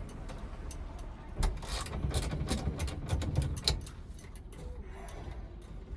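Hand ratchet clicking in quick, uneven runs as a steering-column mounting bolt is worked loose, most busily from about a second and a half in to about four seconds.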